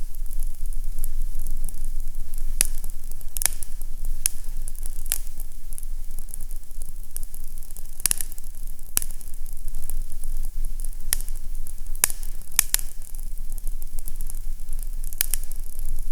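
Fireplace fire crackling, with irregular sharp pops about once a second over a steady low rumble.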